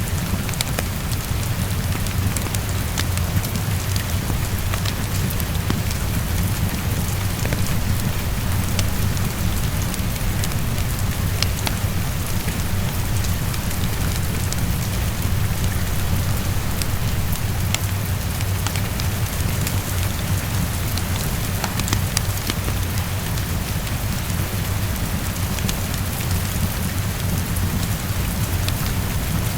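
Heavy rain falling steadily against a window, over a constant low rumble, with scattered small ticks of individual drops.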